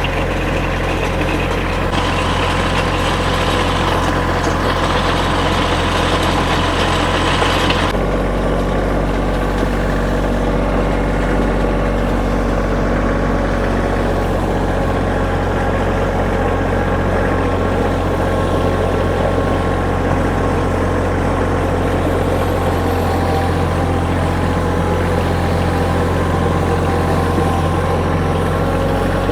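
Kioti compact tractor's diesel engine running steadily under load while it pulls a railroad-tie drag over a gravel driveway. About eight seconds in, the engine note shifts and a hiss in the higher range drops away.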